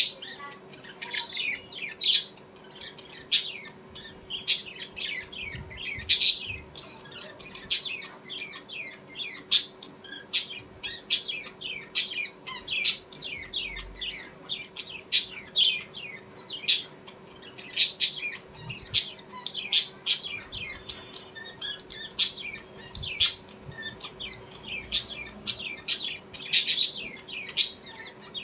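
Small birds chirping rapidly and continuously, many short falling notes overlapping, with a faint steady hum underneath.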